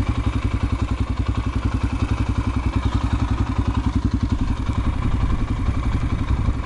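Yamaha TTR125 dirt bike's single-cylinder four-stroke engine running steadily at low revs, with an even, rapid putter that neither rises nor falls.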